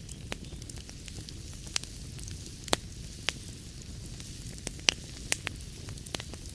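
Wood fire burning in a fireplace: a low steady rumble of flame with irregular sharp crackles and pops from the burning logs, a few louder pops scattered through.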